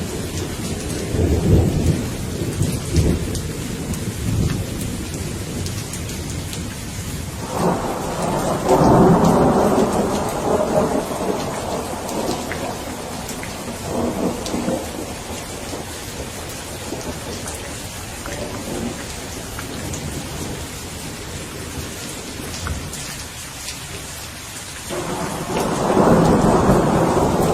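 Steady rain falling with rolling thunder. A low rumble comes in the first few seconds. A louder peal breaks about seven and a half seconds in and rumbles on for several seconds, a fainter one follows around fourteen seconds, and another starts abruptly near the end.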